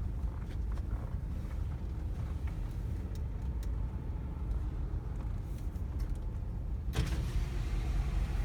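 Car engine idling with a steady low rumble, a few light clicks, and a short rush of noise about seven seconds in.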